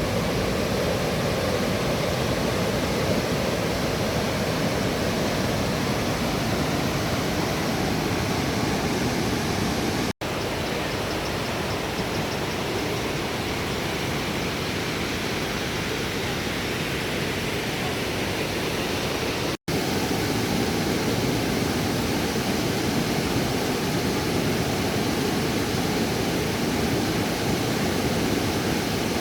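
Steady rush of falling water from a waterfall, broken by two split-second dropouts about ten and twenty seconds in.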